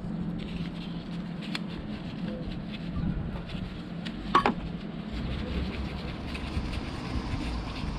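Metal parts and tools knocking during starter-motor removal: a few light clicks and one sharp, ringing metal clank about four seconds in, over a steady low hum.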